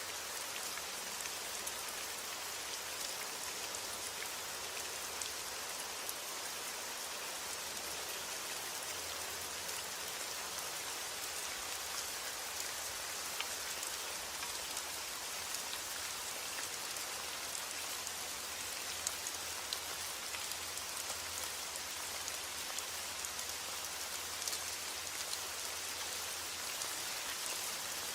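Steady rain falling on a roof, an even hiss with scattered ticks of single drops and no thunder.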